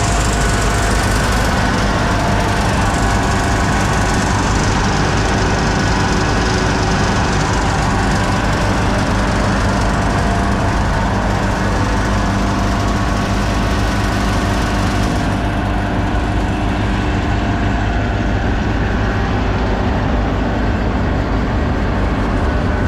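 Grain dryer machinery running steadily and loudly: a deep engine-like hum with several steady higher tones over a broad hiss. The high hiss drops away about fifteen seconds in while the machine keeps running.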